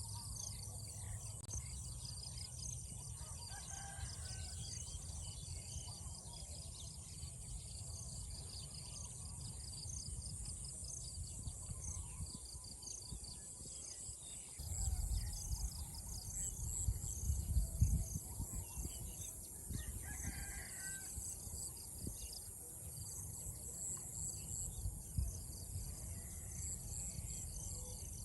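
Rural countryside ambience: insects chirring steadily in a high pitch, with a rooster crowing once or twice. A low rumble swells about halfway through.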